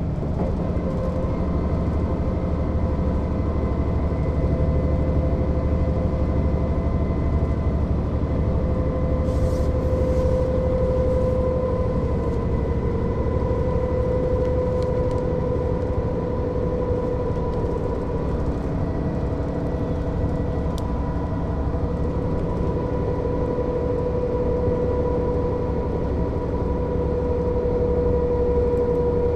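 Mercedes-Benz O 407 city bus's diesel engine and drivetrain running: a steady drone with a high whine on top whose pitch drifts slightly. A few faint clicks come through near the middle.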